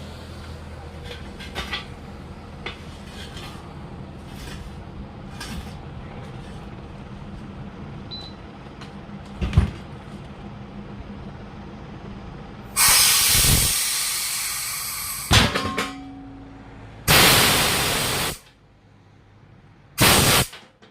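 Repeated blasts of compressed air hissing loudly, three longer ones that fade and one short one, in the second half, over a steady low machine hum with small clicks and one sharp knock before them.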